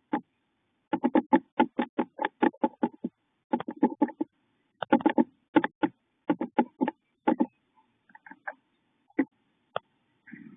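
A bird calling in a rapid series of short notes, about four or five a second, thinning to a few scattered notes after about seven and a half seconds.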